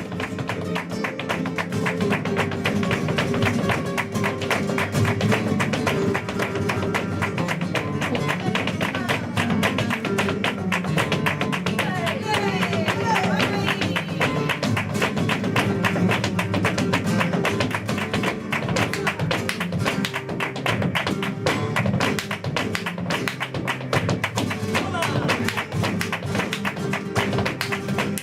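Live flamenco seguiriya: acoustic flamenco guitar playing, with dense sharp percussive strikes throughout.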